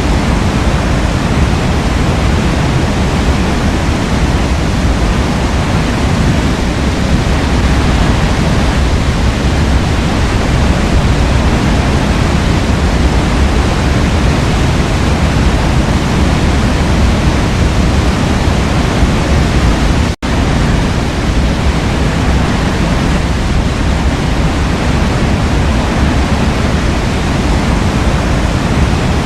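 Waterfall rushing in a steady, loud, even roar of falling water. It cuts out for a split second about twenty seconds in, then resumes unchanged.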